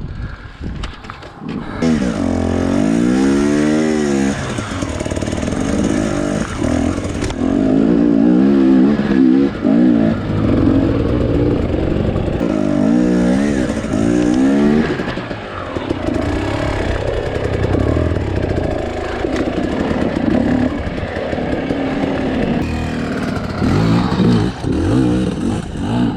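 Two-stroke dirt bike engine on the trail, its revs rising and falling again and again. Two long runs of quick blips up and down come about two seconds in and again near the middle.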